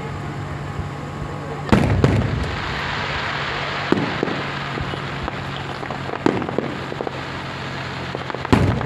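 Fireworks going off: two loud bangs close together about two seconds in, then several fainter pops spread out, over a steady hiss of background noise.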